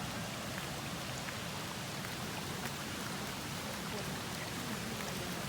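Waterfall and stream rushing: a steady wash of splashing water with small droplet spatters through it.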